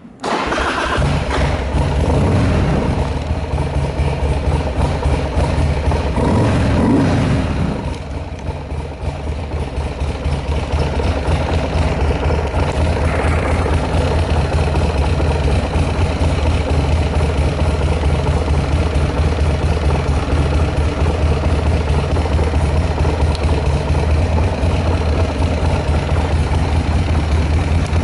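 Buell X1 Lightning's air-cooled V-twin cold-started, catching at once. It runs faster and unevenly for the first several seconds, then settles to a steady idle with no abnormal noises, as the seller advertises.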